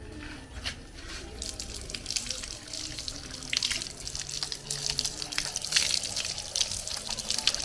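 Water running and splashing, starting about a second and a half in and continuing unevenly.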